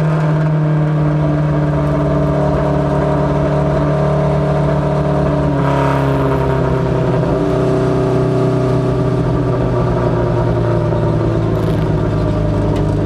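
Ministock race car engine running steadily, its pitch falling slowly throughout as the car slows down at the end of practice.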